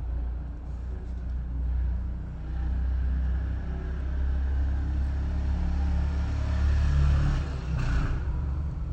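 Low, steady rumble of burning flames, swelling louder over the middle of the stretch with a brief rushing surge near the end.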